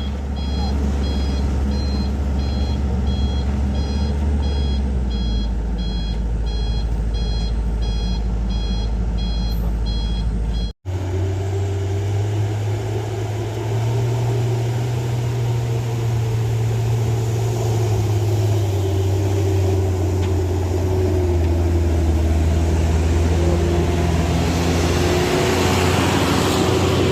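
Heavy diesel truck engine running, with a reversing alarm beeping over and over as the truck backs down the hill. After a sudden break about eleven seconds in, a truck engine runs on steadily without the beeper, and a hiss builds near the end.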